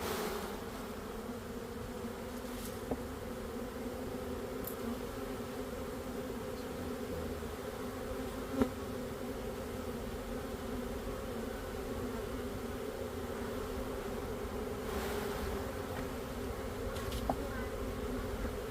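A mass of bees buzzing steadily in an opened hive, a continuous low drone. A single sharp tap sounds about halfway through, with a couple of fainter ticks.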